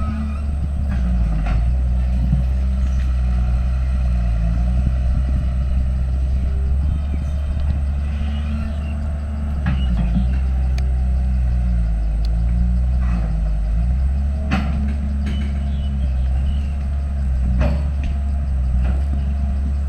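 Heavy earthmoving machine's diesel engine running under varying load, its pitch rising and falling every few seconds, with occasional sharp knocks about a second and a half in, near the middle and toward the end.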